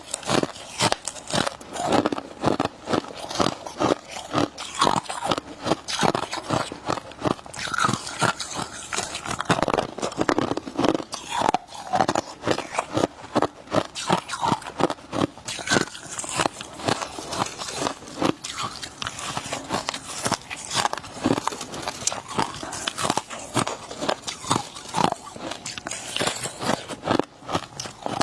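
Close-miked crunching and chewing of freezer frost ice: a rapid, continuous run of sharp crunches, bite after bite.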